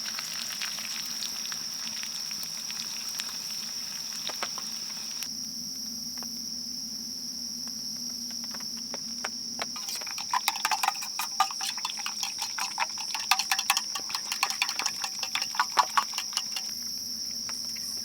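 Food crackling and popping in a skillet over a campfire, sparse at first and then a dense run of pops in the second half, over a steady high chirring of insects.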